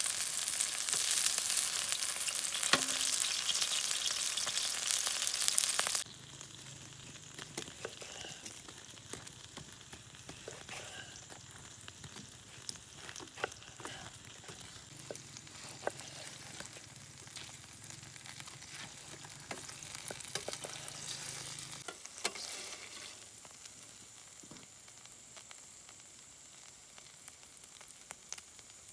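Food frying in a pan, with a loud, dense sizzle that drops abruptly about six seconds in to a much quieter sizzle with scattered crackles and clicks.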